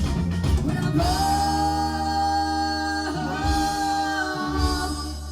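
Live band music with sung notes held long over a bass line, the voices breaking off briefly about three seconds in.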